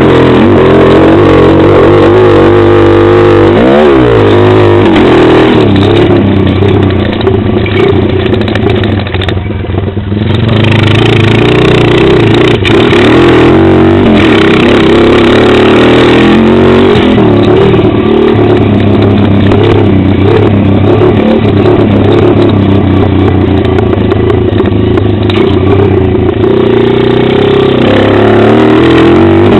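Pit bike engine revving up and down continuously under hard riding, heard close up from the rider's helmet camera; the throttle eases off briefly about ten seconds in.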